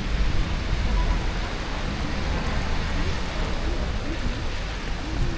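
Rainy city street ambience: a steady hiss of rain over a low rumble of traffic, with indistinct voices of passers-by.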